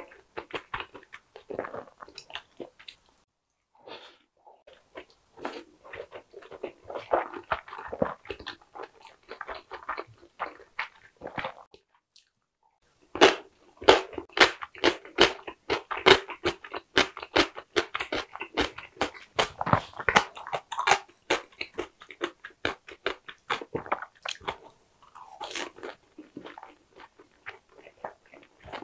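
Close-miked eating sounds of dumplings being chewed: soft, wet chewing at first, then from about halfway, louder rapid crunching that fits a crisp pan-fried dumpling. Short pauses come twice in the first half.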